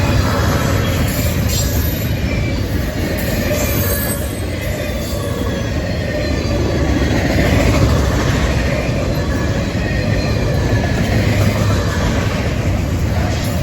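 Norfolk Southern freight train rolling past, a steady loud rumble of wheels on rail with scattered high-pitched wheel squeal.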